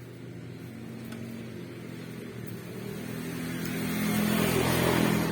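Small 50cc engine running, growing steadily louder over about four seconds with a slight rise in pitch, then dropping away suddenly near the end.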